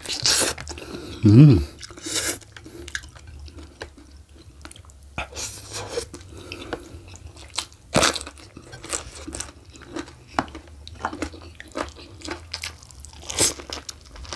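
Close-up eating sounds: wet chewing and gnawing on braised oxtail meat, broken by sharp crunches as raw lalapan vegetables, a small round green eggplant among them, are bitten. The loudest crunches come about eight seconds in and near the end.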